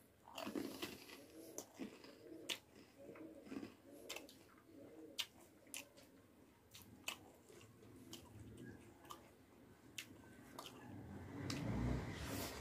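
Close-miked chewing and biting of fried masaura with rice: wet mouth sounds with sharp crunches and clicks scattered throughout. Near the end there is a louder, longer rustle.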